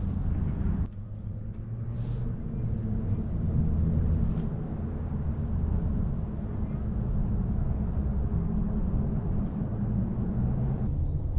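Steady low rumble, with abrupt shifts about a second in and near the end.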